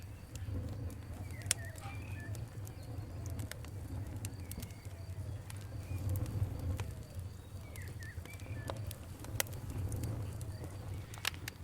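Campfire crackling: irregular sharp pops and snaps over a low steady rumble, with a few louder pops. Birds call and chirp in the background.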